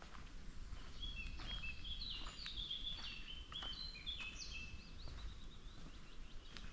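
A songbird sings a quick phrase of short whistled notes at varying pitches, lasting about four seconds and starting about a second in. Footsteps on a forest trail tick faintly and regularly underneath.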